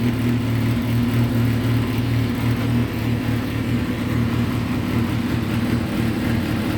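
Yamaha XJR400R's air-cooled inline-four engine running steadily through a new RPM aftermarket muffler, holding an even pitch.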